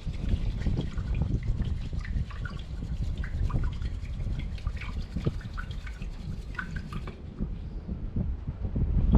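Water sloshing and dripping in a small metal pot, with short bubbly plinks and light rubbing noises, over a steady low rumble of wind on the microphone.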